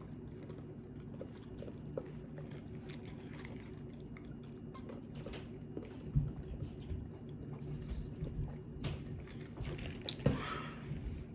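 A person chewing and biting food close to the microphone, with soft, irregular mouth clicks and a sharper bite about ten seconds in, over a steady low hum.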